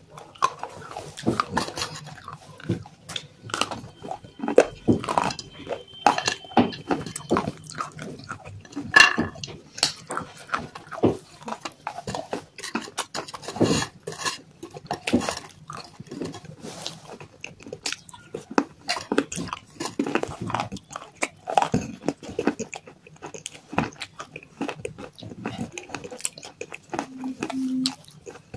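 Close-up chewing and crunching of dry clay pieces mixed with wet white clay paste: a dense, irregular run of sharp crunches and mouth clicks.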